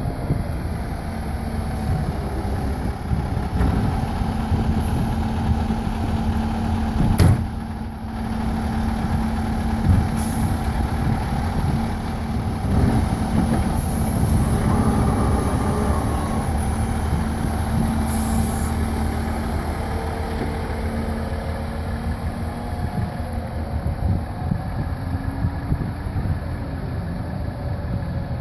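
Fire engine's diesel engine running steadily at low speed as the truck manoeuvres to park, with a sharp knock about seven seconds in and another about ten seconds in.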